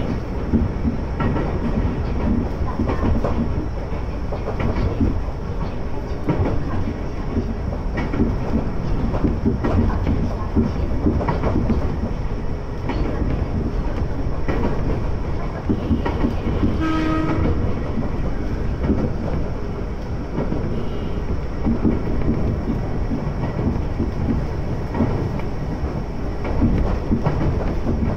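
Ex-Tokyu electric train of the Iga Railway heard from inside the car while running: steady wheel and track rumble with scattered clicks over the rail joints. A short horn blast sounds about two-thirds of the way through.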